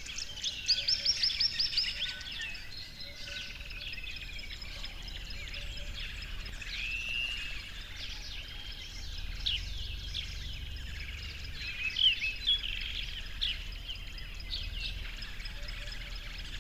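A chorus of small birds chirping and singing, many short calls and trills overlapping, over a steady background hiss; a fast rattling trill about a second in and a sharp call near 12 s are the loudest.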